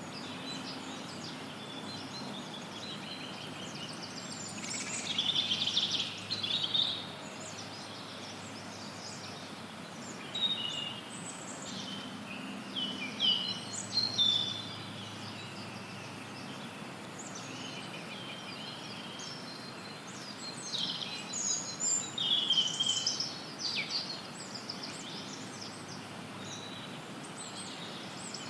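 Forest songbirds chirping and trilling in scattered bursts over a steady hiss of white noise.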